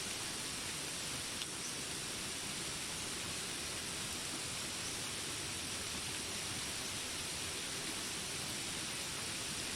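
Steady rain hiss, even and unbroken, with a faint tick about a second and a half in.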